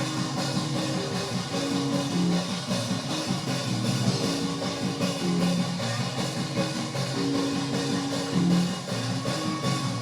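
Live church praise music: a drum kit keeping a steady beat under held chords and guitar.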